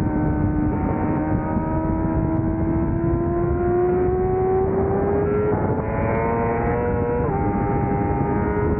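600cc racing motorcycle engine pulling hard, revs climbing steadily through a gear, then a quick upshift a little after seven seconds in drops the pitch before it starts climbing again. Heavy wind rush lies under the engine note.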